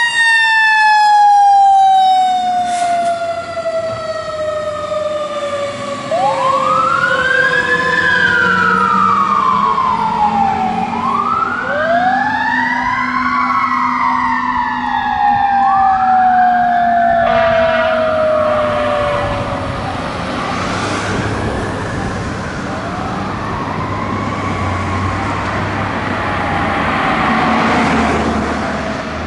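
Fire engine's Federal Signal Q2B mechanical siren winding down in one long falling tone, while an electronic siren wails over it in repeated rising and falling sweeps. Both fade toward the end as the truck moves off.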